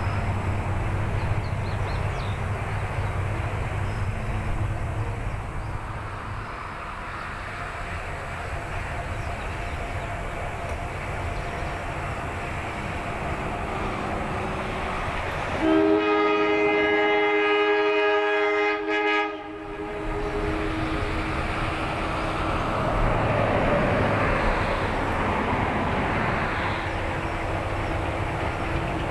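East Broad Top narrow-gauge diesel locomotive #19 running with its train. About sixteen seconds in, it gives one long horn blast of several notes sounding together, which lasts about three and a half seconds and cuts off.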